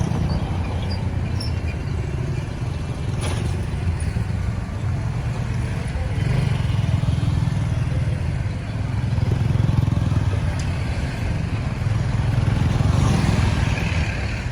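Traffic on a busy road: vehicle and motorbike engines running in a steady low rumble that swells a little now and then, with a single short knock about three seconds in.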